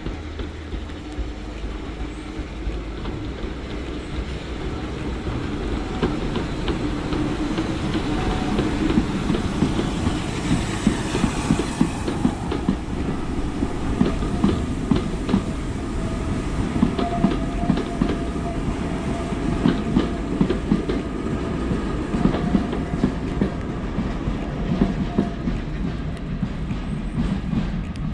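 Steam train with its carriages passing close by, the wheels clicking and clacking over the rail joints. It grows louder over the first several seconds and then runs on steadily.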